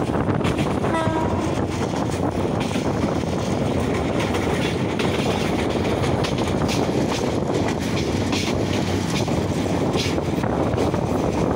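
Passenger train running at speed, heard through an open carriage window: a steady rumble of wheels and rushing air with scattered rail clicks. A brief pitched tone sounds about a second in.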